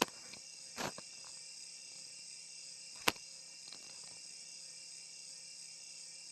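A steady high-pitched hiss with a few short clicks: a pair of light ones about a second in and a single sharp, louder click about three seconds in.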